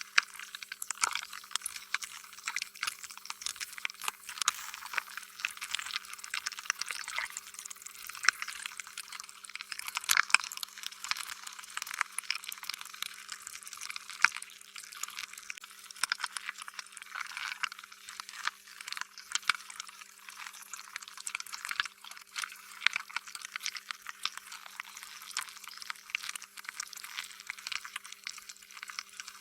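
Slime being squished and stretched: a continuous, irregular run of sticky, wet clicks and pops.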